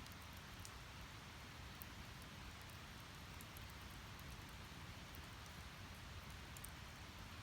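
Wood fire burning: a faint, steady hiss with scattered small crackles of the firewood.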